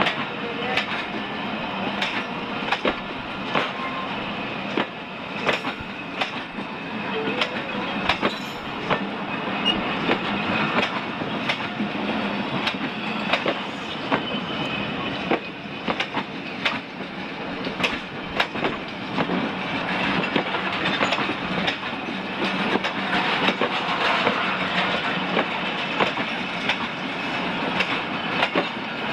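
Pakistan Railways passenger coaches rolling past close by: a steady rumble of wheels on rail, with repeated sharp clacks, often in close pairs, as the wheels cross the rail joints.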